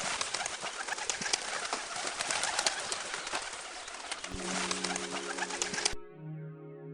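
Pigeons cooing over a dense, crackly background. The sound cuts off suddenly about six seconds in.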